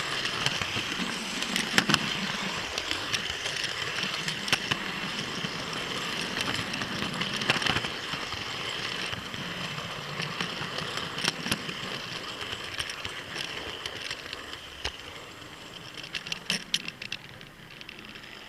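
Model train running on the track: a steady motor and wheel whir with many sharp clicks, growing fainter through the second half as it moves away.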